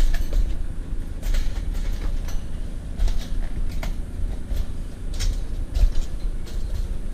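A load of scrap metal rumbling and rattling as it is moved along, with irregular knocks and clanks over a steady low rumble.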